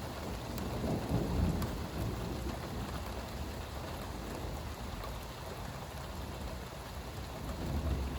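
Steady rain falling, with low thunder rumbling. The rumble is loudest about a second in and swells again near the end.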